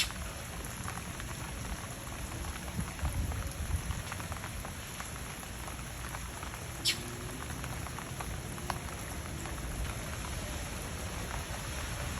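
Steady rain falling on surfaces, a dense patter of drops with a few louder individual drips ticking out, the sharpest about seven seconds in.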